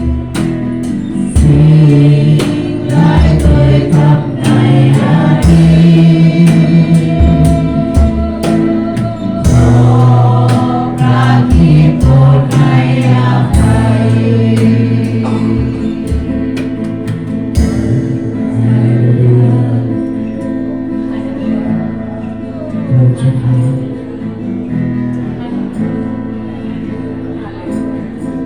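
Christian worship song performed live by a band, with a group singing over drums and bass. The drums drop out about two-thirds of the way through and the music becomes softer.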